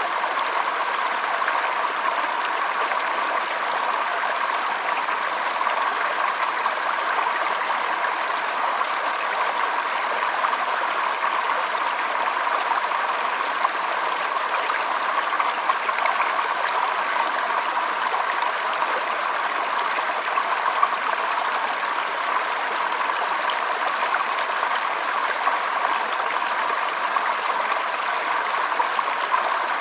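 Shallow stream trickling over stones, a steady even babble of water.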